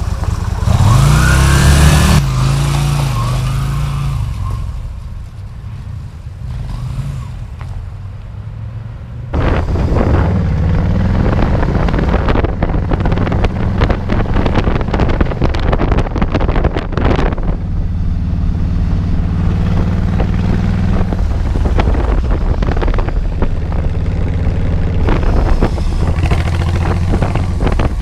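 Motorcycle engines revving and pulling away, rising in pitch about a second in, then running at road speed with wind rushing on the microphone. The sound drops quieter for a few seconds and jumps back loud suddenly about nine seconds in.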